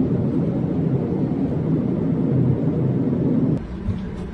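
Steady low rumble of jet aircraft noise that cuts off abruptly about three and a half seconds in, leaving a quieter hum.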